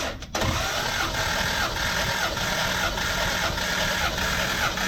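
Jaguar XK150's 3.4-litre six-cylinder engine cranked over on its starter motor with the throttle open during a compression test of cylinder number 6. The cranking starts just after the beginning and runs steadily with an even pulsing rhythm and a wavering whine.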